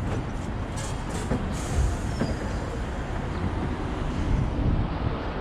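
Hong Kong double-decker tram running along street rails, heard from on board: a steady low rumble with a few brief clicks and rattles about a second in.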